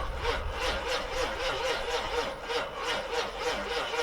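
GM 6.5-litre turbo diesel turning over on its starter, an even rhythmic chugging at about five compression strokes a second, without catching. The engine is slow to start just after its glow plugs were cycled.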